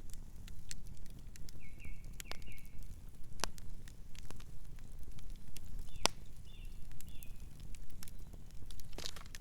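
Campfire burning with a steady low rumble and scattered sharp crackles and pops, about five distinct snaps. Two short runs of high chirping notes come in, about two seconds in and again near six seconds.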